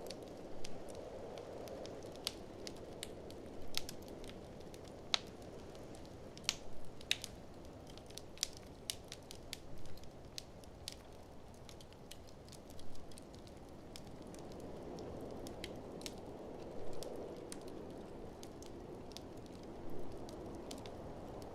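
Wood fire crackling with irregular sharp pops, over a steady blizzard wind that swells in gusts near the start and again about three-quarters of the way through.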